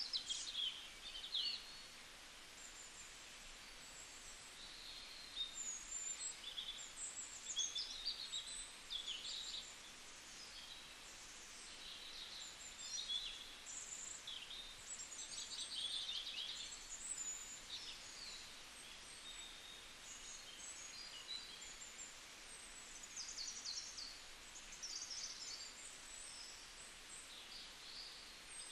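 Birds chirping again and again over a faint, steady hiss.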